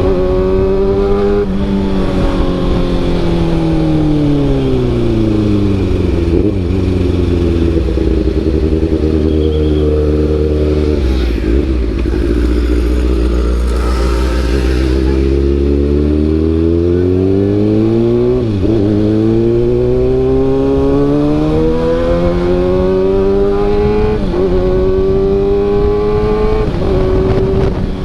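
Kawasaki ZX-6R inline-four motorcycle engine through an SC-Project CRT carbon exhaust. The note falls over the first several seconds as the bike slows and holds low for a while. It then climbs through the gears, with three quick upshifts that each drop the pitch before it rises again.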